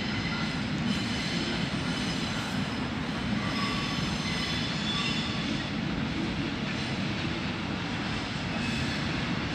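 A container freight train rolling past at a distance: a steady rumble of wagons on the rails, with faint high-pitched wheel squeal.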